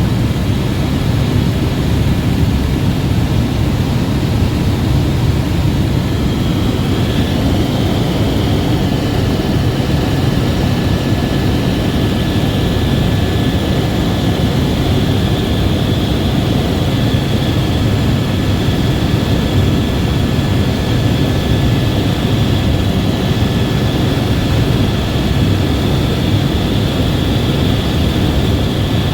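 Helicopter in flight: steady, loud rotor and engine noise with a faint high turbine whine.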